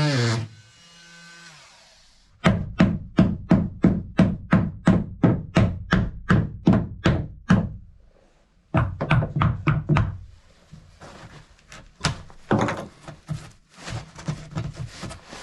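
A rapid, even series of wooden knocks, about three or four a second for several seconds, then shorter irregular bursts of knocking. It sounds like a wooden piece being tapped or hammered to fit it into place.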